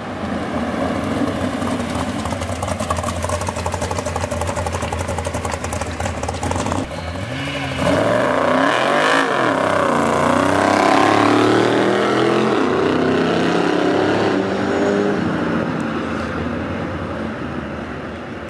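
Drag-racing car engines running, then about eight seconds in several engines rev hard and accelerate, their pitch rising and falling repeatedly, before fading away over the last few seconds.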